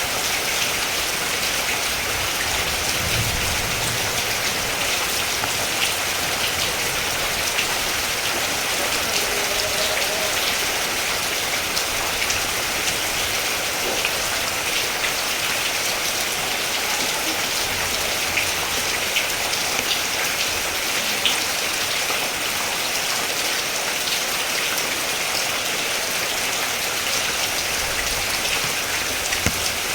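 Steady rain falling, with many individual drops ticking on a surface, and a few faint low rumbles.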